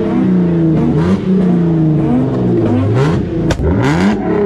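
Car engine revving loudly, its pitch climbing and dropping several times in quick succession.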